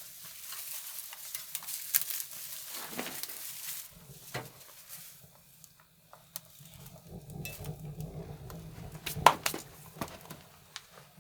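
A small newly lit fire crackling and hissing, with scattered sharp snaps; the loudest snap comes a little after nine seconds.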